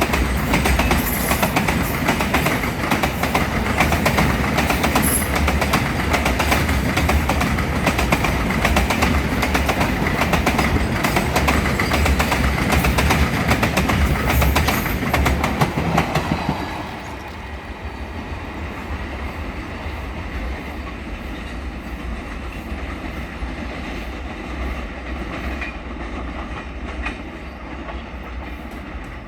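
Diesel-hauled train rolling past at track side, its wheels clattering rapidly over the rail joints. About sixteen seconds in the clatter drops off sharply, leaving a fainter steady rumble.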